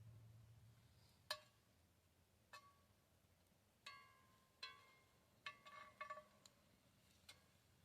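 Faint, irregular metallic clinks, about nine of them, each ringing briefly, like a metal utensil tapping against cookware.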